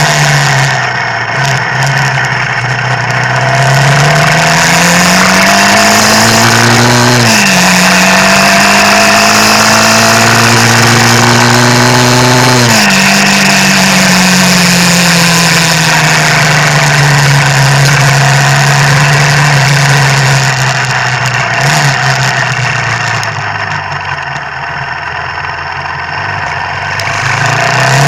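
Motorcycle engine pulling through the gears. Its pitch climbs, drops sharply at upshifts about 7 and 13 seconds in, then falls slowly as the bike eases off, and picks up again near the end. A steady hiss of wind and wet road runs under it.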